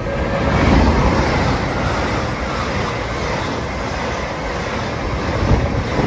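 LNER Azuma high-speed train passing through at speed without stopping: a loud rush of wheel and air noise, loudest about a second in, then a steady rumble as the carriages go by.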